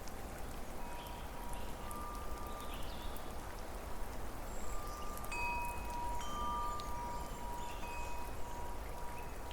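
Wind chimes ringing, several clear tones struck one after another and left to sustain, over a steady hiss of water.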